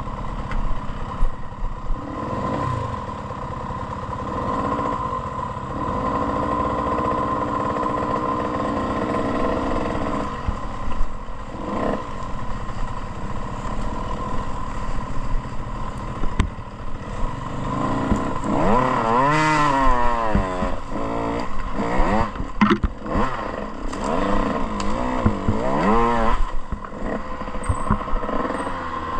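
Motocross dirt bike engine under way, steadier at first, then revving up and down repeatedly through the second half, with knocks and clatter from the bike on the rough track.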